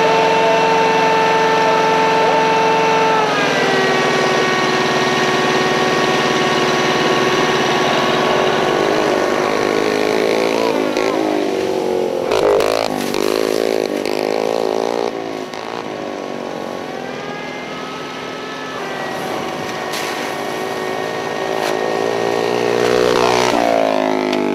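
Dirt bike engine running, its pitch steady at first, dropping a few seconds in, then rising and falling repeatedly as the throttle is worked.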